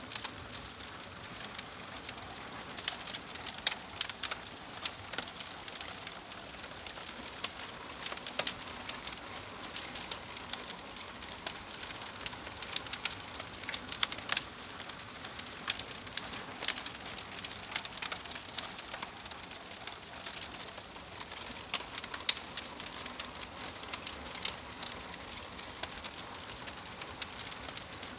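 Wood fire crackling, a steady soft hiss with frequent irregular sharp pops and snaps.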